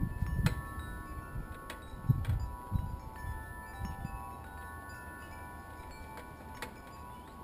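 Wind chimes ringing: several overlapping metal tones that sound out at different moments and hang on. Low thumps of handling come in the first few seconds, with a few sharp clicks.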